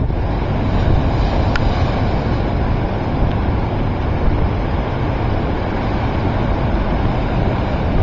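Strong gale wind buffeting the microphone in a steady, heavy rush, with Lake Superior's surf mixed in.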